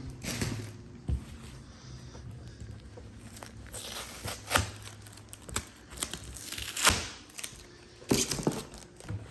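Tape being peeled and torn off packaging, with rustling and crinkling of the wrapping in irregular bursts, the loudest about seven seconds in.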